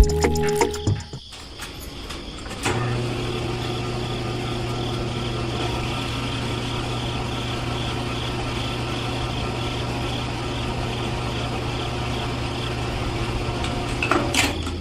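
A motor running steadily with a constant hum, starting about three seconds in.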